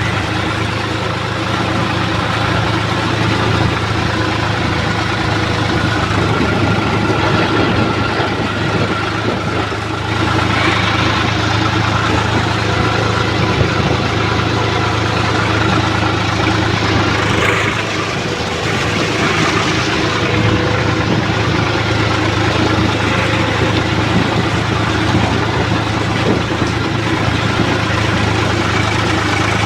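Swaraj 960 FE tractor's diesel engine running steadily, with brief small dips in level about ten seconds in and again near eighteen seconds.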